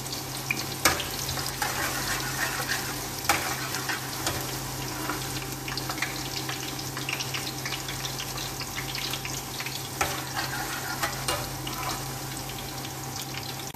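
Sliced ginger sizzling and crackling as it browns in hot olive oil in a metal wok, with a slotted metal spatula stirring it and now and then clicking against the pan. A steady low hum runs underneath.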